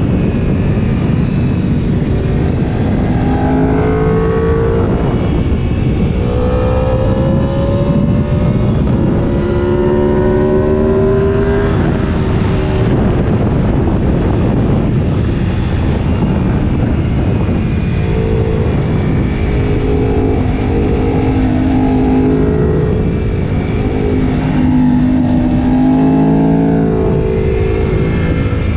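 Sport motorcycle engine pulling hard, its pitch climbing and falling again and again as it accelerates and changes gear, under heavy wind buffeting on the microphone.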